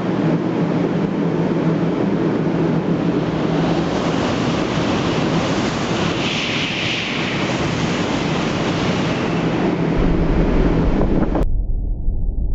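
Shinkansen train passing at speed: a loud, steady rush of air and running noise with wind buffeting the microphone. Near the end it cuts abruptly to a dull low rumble.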